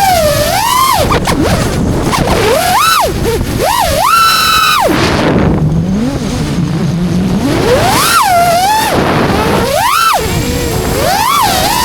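FPV quadcopter's motors and propellers whining, the pitch sweeping up and down again and again as the throttle is punched and cut, over a steady rush of wind noise.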